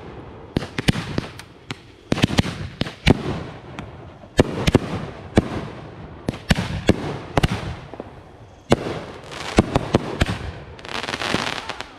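Fireworks going off in a rapid, irregular string of sharp bangs from bursting shells. There are stretches of dense crackling about two seconds in and again near the end.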